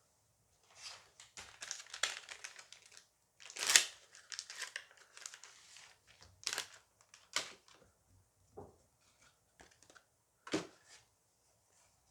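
Foil booster pack being torn open and its wrapper crinkled in the hands, with the loudest tear about four seconds in. A few separate sharp crackles and clicks follow.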